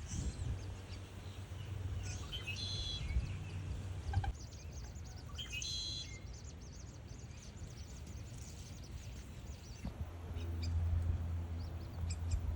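Birds chirping: two short high calls a few seconds apart, with a run of quick faint chirps between them, over a low steady rumble of background noise that grows near the end.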